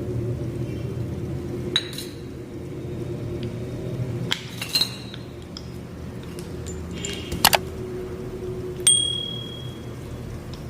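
Metal parts of a dismantled ten-piston car AC compressor from a Hyundai i10 clinking and knocking together as it is taken apart: a few separate sharp clinks, the last ringing on briefly, over a steady low hum.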